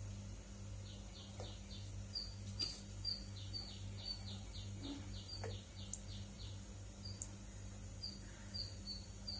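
Small birds chirping again and again, with a quick run of falling chirps through the middle, over a steady low hum.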